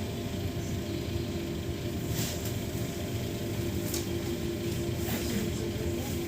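Interior ride noise of a VMZ-5298.01 Avangard trolleybus: a steady low rumble with an even hum at one pitch. Two brief higher rattles come about two and four seconds in.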